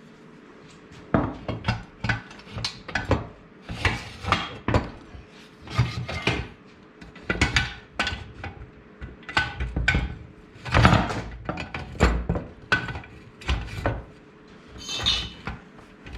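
Steel rails of a mobile base being worked into their channels: a string of irregular metal clanks and knocks, with some scraping, as the pieces are pushed and tapped into place.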